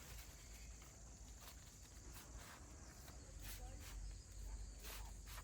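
Faint outdoor ambience: a low rumble with light scattered clicks and rustles.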